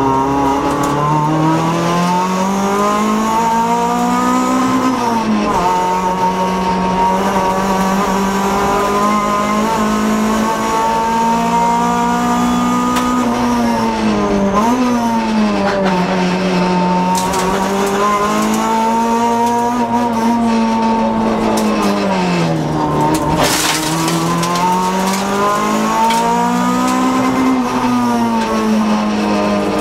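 Honda Civic rally car's four-cylinder engine heard from inside the cabin at racing pace, revs rising and falling again and again through gear changes and braking, with several deep dips in pitch as it slows for corners.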